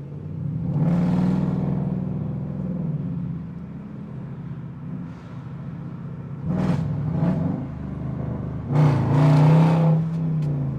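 Dodge HEMI V8 engine running under way and accelerating hard in surges: one about a second in, a short pair of blips around six to seven seconds, and the loudest, longest pull near the end, with a steady rumble between them.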